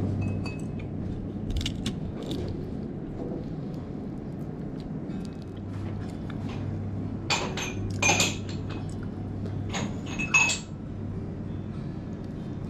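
Light clinks of tableware at a meal, in two pairs about seven and ten seconds in, over a steady low hum.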